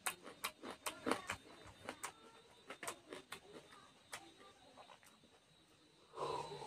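Close-miked eating: rapid wet chewing and lip smacks from a mouthful of rice and curry eaten by hand, thinning out after about three and a half seconds. Near the end, a louder gulping sound as he drinks from a glass.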